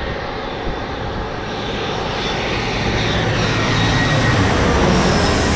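Jet airliner's engines passing close, a loud rushing roar that builds to its peak about four to five seconds in, with a whine sliding down in pitch as it goes by.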